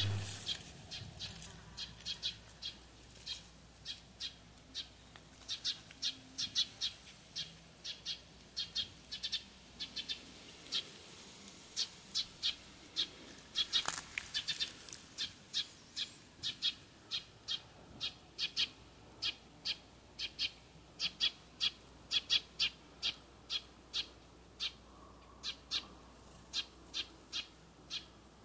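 A small bird repeating short, sharp high-pitched chirps, about two to three a second, with one louder call about halfway through.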